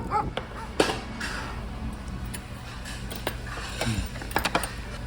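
Scattered light clicks and clinks of tableware over a low steady hum.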